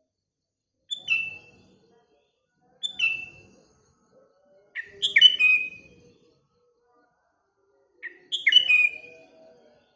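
Sooty-headed bulbul (kutilang) calling in separate bursts with silent gaps. Two short downward-sliding chirps come first, then two longer phrases of several bubbly notes from about halfway through.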